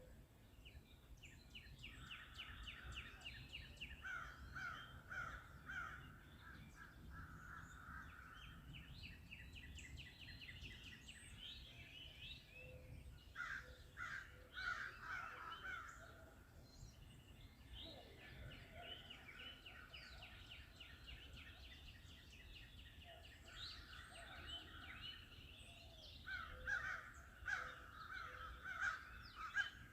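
Several birds singing and calling at once: overlapping trills and runs of fast repeated notes, with a few louder notes near the end, over a low steady background rumble.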